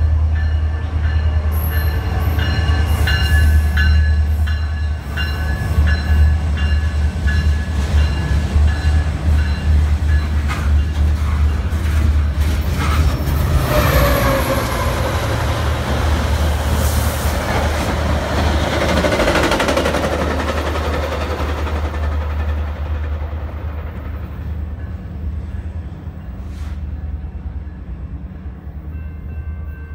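A freight train of grain hoppers rolls past behind a BNSF diesel locomotive with a steady low rumble of engine and wheels, and thin high tones over the first dozen seconds. About 13 s in, a Metra express commuter train speeds through on the next track, a louder rush of wheel and engine noise that falls in pitch as it passes. It then fades away.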